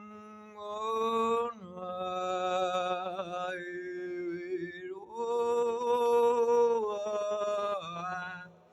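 Solo voice singing long, held, wordless chant-like notes a cappella in a tunnel, in three or four sustained phrases over a steady low drone. The voice fades out near the end.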